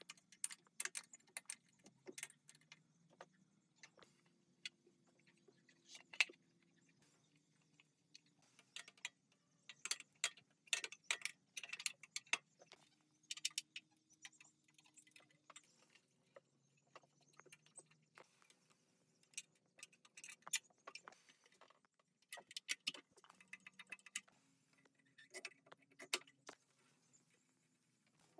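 Irregular light metallic clicks and clinks, coming in clusters, of small metal parts and hand tools being handled.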